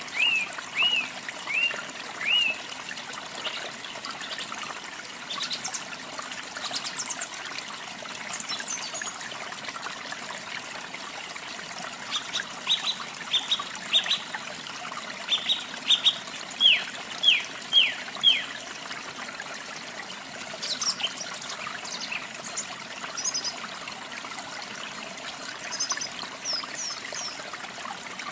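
Water trickling and splashing steadily, with birds calling over it: a quick run of short notes at the start, a series of about ten loud downslurred whistles in the middle, and scattered high chirps elsewhere.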